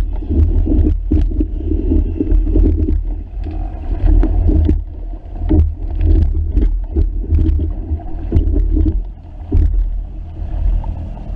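A sailing dinghy underway in a strong breeze: wind rumbling on the microphone, with many short slaps and knocks of water against the hull. The slaps thin out near the end.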